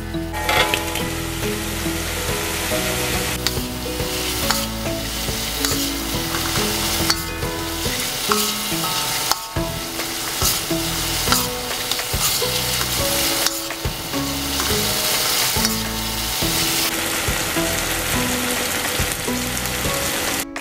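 Sambal chili paste and fried fish sizzling in a wok while being stirred and turned with a metal spatula, with scrapes against the pan. Soft background music plays underneath.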